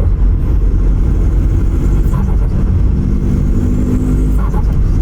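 Turbo-diesel Hyundai Accent running on a straight-piped full exhaust: a loud, steady, low exhaust rumble that cuts off suddenly at the end.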